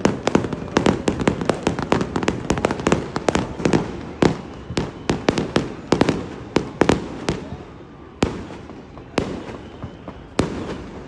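Fireworks going off: a fast volley of sharp bangs and crackles for the first several seconds, thinning to a few separate bangs near the end.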